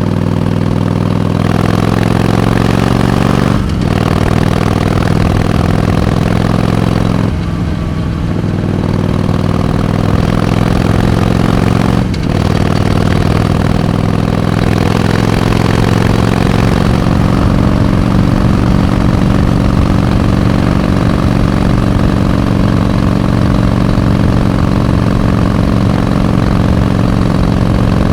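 Harley-Davidson Iron 883's air-cooled V-twin engine under way, pulling through the gears. There are brief dips about 4, 8 and 12 seconds in as it shifts up, then it runs steadily with its pitch slowly rising.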